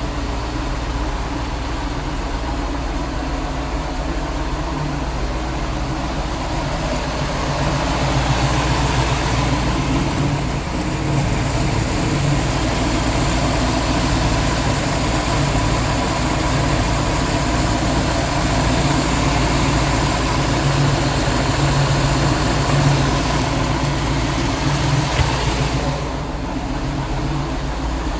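Twin 454 big-block V8 marine engines idling steadily after a cold start, one of them freshly rebuilt; both run smoothly with good oil pressure and charging alternators. The sound grows a little louder about eight seconds in and eases back near the end.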